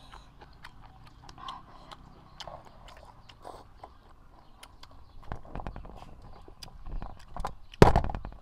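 Close-up eating sounds: chewing, biting and lip smacks as squid and rice noodles are eaten, with a scatter of small clicks that thickens in the second half and one brief louder noise near the end.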